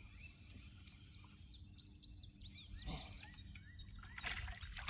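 Outdoor ambience of a steady high insect drone with many short bird chirps, broken by two brief handling noises about three and four seconds in.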